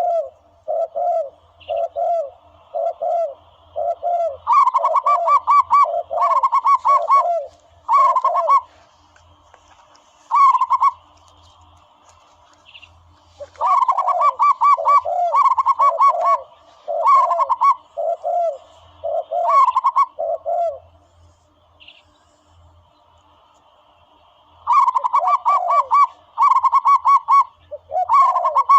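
Recorded dove calls played as a hunting lure: a steady series of cooing notes about two a second, joined in runs by quicker, higher-pitched call notes, with two short pauses in the calling.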